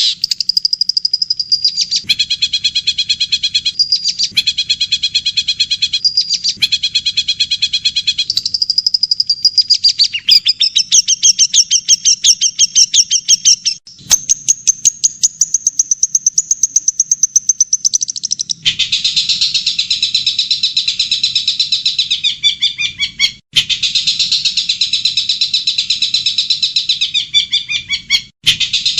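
Recorded songbird song in fast, rapidly repeated trilling notes, played as spliced clips that cut abruptly from one to the next every few seconds.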